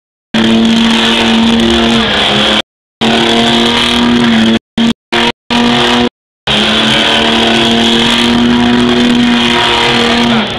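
A car engine running loud at steady, held high revs, with the pitch dipping slightly a couple of times. The sound cuts out to dead silence several times: gaps in the recording.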